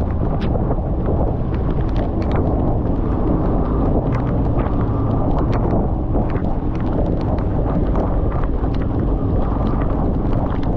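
Heavy wind rumble on the microphone from a moving motorcycle in a storm, with irregular sharp ticks of raindrops striking the microphone.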